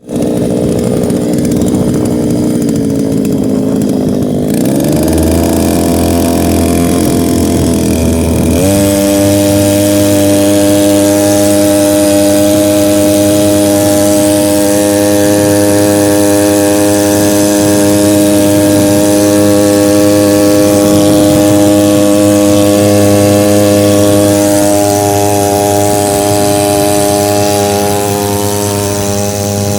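Small Chinese engine running without its exhaust resonator fitted. It revs up in two steps in the first nine seconds, then holds a steady high-speed buzz.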